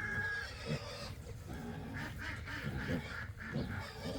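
Domestic waterfowl calling over and over, a run of loud, agitated calls.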